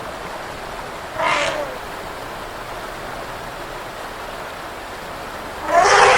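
Two short calls from an animal, one about a second in and a louder, longer one near the end, over a steady rushing noise.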